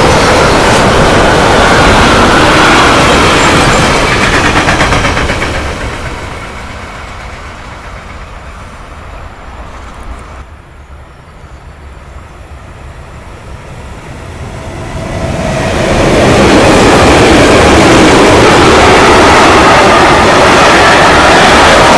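Freight trains passing close by, their wagons rumbling and clattering over the rails. A train of double-deck car-carrier wagons dies away in the first few seconds. After a quieter stretch, a second freight train of timber and tank wagons rolls past loudly from about two-thirds of the way in.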